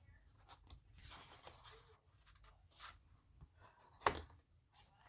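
Stiff paper journal pages being turned and handled, with soft rustles and one sharp snap about four seconds in.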